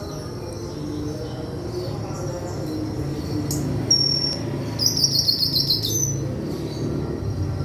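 A white-throated flycatcher (sikatan kerongkongan putih) calling: scattered short high chirps, then a fast trill of repeated notes lasting about a second, over a steady low hum.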